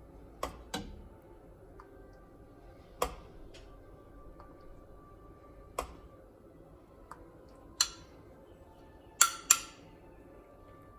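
Kitchenware clinking and tapping: seven sharp separate knocks spread unevenly, the loudest a close pair about nine seconds in.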